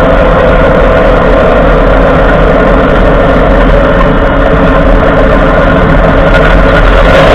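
Ford F-150 driving, heard from under the truck by the driver's-side front wheel: a loud, steady rush of road and drivetrain noise with a steady drone underneath.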